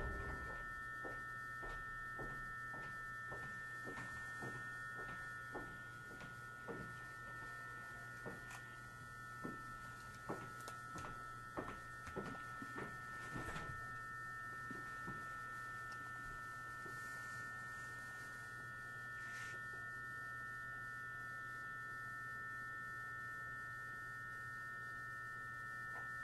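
Faint steady high whine made of several close tones, over a low hum, from the electrical equipment of a standing 209-series electric train car. Scattered light clicks and taps come and go in the first half.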